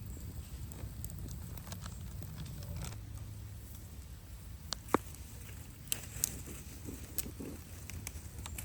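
Campfire crackling, with a handful of sharp pops, the loudest about five seconds in, over a steady low rumble.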